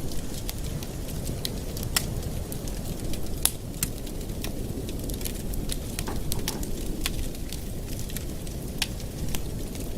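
Wood fire in a fireplace crackling, with many irregular sharp pops, the loudest about two seconds and three and a half seconds in, over a steady low rumble.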